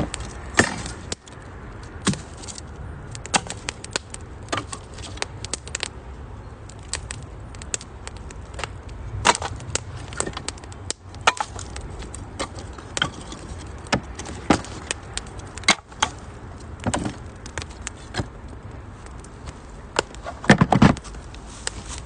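Wood fire crackling in a UNIFLAME Nature Stove Large, a compact stainless-steel wood-burning stove: irregular sharp pops and snaps over a steady hiss of burning, with a quick run of louder pops near the end.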